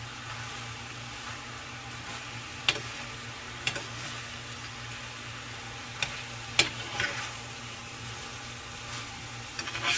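Ground beef and rice sizzling in a frying pan, a steady hiss, with a utensil clicking and scraping against the pan half a dozen times as the mixture is stirred.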